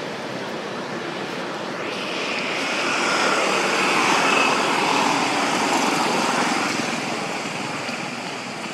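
A passing vehicle's engine noise, swelling to its loudest about four seconds in and fading away again, its pitch dropping as it goes by.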